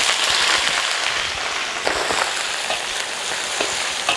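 Blanched duck pieces sizzling loudly and steadily in hot oil in a large wok, just tipped in, with a few small clicks through the sizzle.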